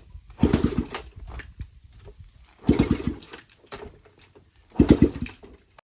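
Dirt bike engine with no exhaust fitted, firing on starting fluid in short loud bursts about every two seconds, with quiet gaps between.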